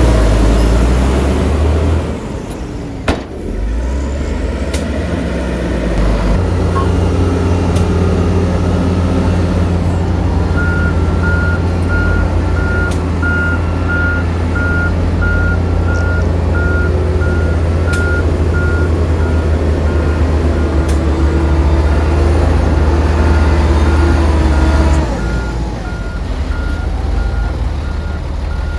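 Heavy diesel earthmoving machinery running under load, with a reversing alarm beeping steadily from about a third of the way in, pausing briefly and starting again near the end.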